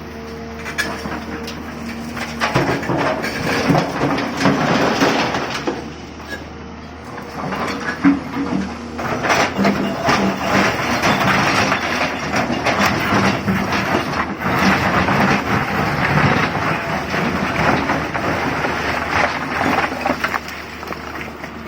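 TATA Hitachi 200 excavator working stone: its diesel engine runs steadily, then a dense rattle and crash of rocks starts a couple of seconds in as the bucket scoops and dumps stone. The clatter eases briefly and then carries on.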